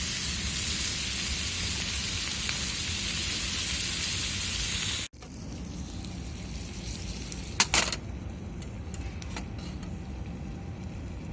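Food sizzling hard in a frying pan over a campfire, a steady loud hiss that cuts off abruptly about five seconds in. After the cut, a quieter hiss and low rumble with scattered small clicks and a sharp double crack in the middle.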